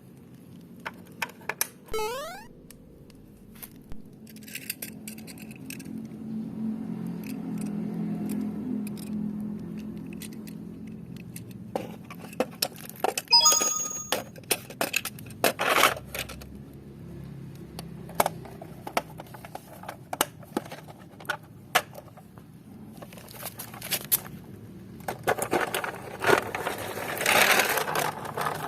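Small die-cast toy cars being handled: repeated clicks, clinks and scraping of metal and plastic pieces, with a dense rattle of clicks near the end. A short falling whistle-like tone sounds about two seconds in.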